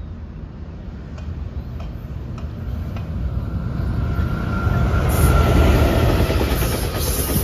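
Coaster commuter train led by a Siemens Charger diesel locomotive approaching and passing close by: a rumble of engine and wheels on the rails that grows steadily, peaks as the locomotive goes past about five seconds in, and carries on as the bilevel coaches roll by.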